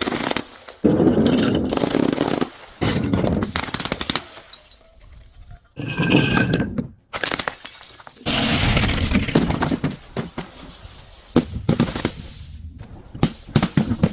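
Objects being crushed and breaking: about six separate bursts of crunching and cracking, with short pauses between. Around the middle there is a brief ringing clink.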